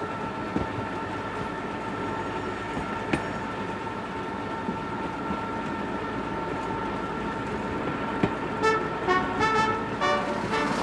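A train running, with a steady two-pitched tone held over its rumble throughout. Music with short plucked notes comes in near the end.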